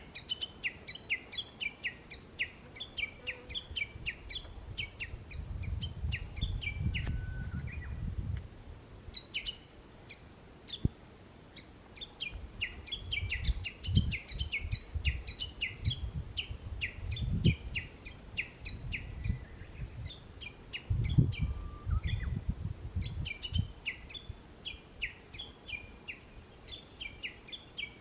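Songbirds chirping in quick, continuous runs of short high notes, with a brief pause about eight seconds in. Bouts of low rumble come and go underneath.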